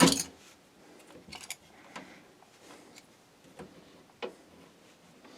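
Scattered small clicks and taps of hands working cables inside a PC case: a sharper snap right at the start, then four or five faint ticks.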